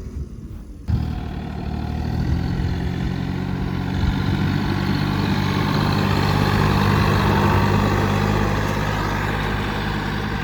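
John Deere tractor's engine running steadily. It comes in suddenly about a second in and grows a little louder toward the middle before easing off slightly.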